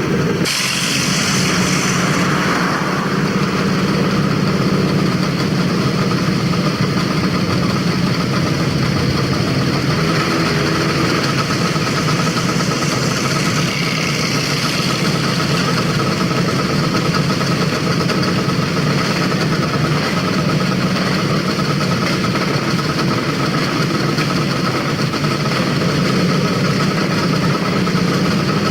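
Vintage motorcycle engines running steadily, with no rise or fall in pitch.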